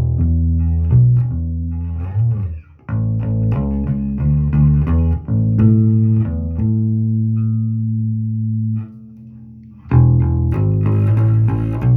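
Electric bass guitar played solo, plucked notes and short lines with a slide down about two and a half seconds in. A long held note rings out from about six and a half seconds, then a brief quieter gap before quicker playing resumes near the end.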